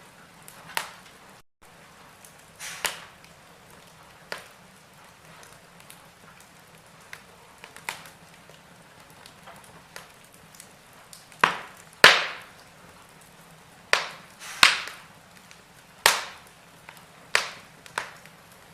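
Wood fire burning in a fireplace, crackling with irregular sharp pops over a faint steady hiss; the pops come thicker and louder in the second half.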